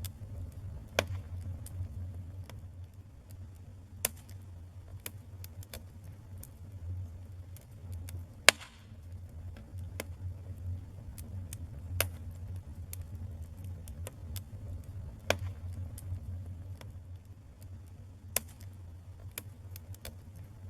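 Wood fire in a fireplace crackling, with irregular sharp pops over a steady low rumble; the loudest pop comes about eight and a half seconds in.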